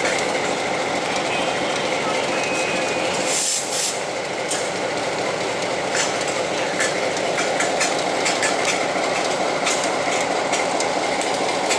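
Slow-moving train on museum track: a locomotive engine running steadily as the Lafayette locomotive and its tender roll along, with scattered sharp clicks from the wheels on the rails.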